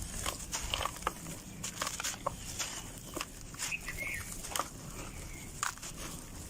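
Dry red dirt lumps crunching and crumbling, an irregular run of small cracks and crackles.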